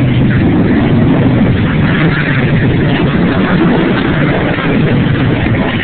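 Loud Harley-Davidson V-twin motorcycles running together as they ride by, a steady dense engine rumble.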